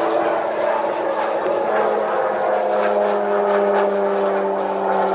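Crop-duster airplane's propeller engine droning as it flies over the field, its pitch slowly falling as it passes.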